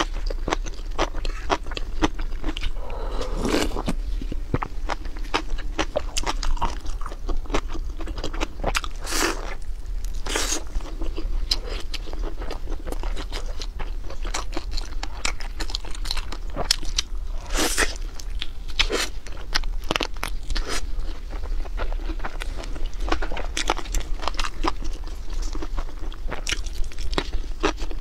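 Close-up crunching and chewing of crispy fried chicken: a dense run of small crackles, with a few louder crunching bites scattered through.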